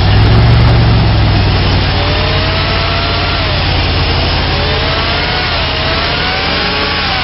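The 2000 Dodge Durango's 4.7-liter V8 running, a little louder in the first second, then settling to a steady idle. A faint whine wavers up and down in pitch over the idle.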